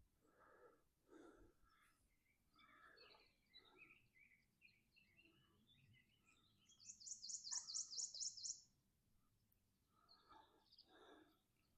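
Faint songbird calls: scattered high chirps, with one rapid, high trill lasting about two seconds a little past the middle.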